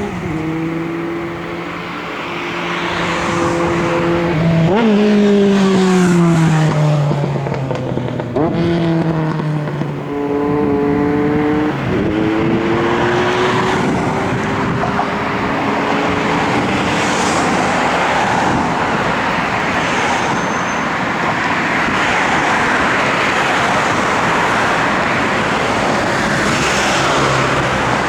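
Kashima Rinkai Railway 6000-series diesel railcar passing: its diesel engine note shifts in pitch several times over the first twelve seconds or so. Then a steady rolling rumble of wheels on rail takes over.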